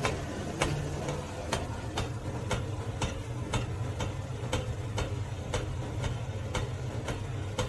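Regular mechanical ticking, about two clicks a second, over a steady low hum.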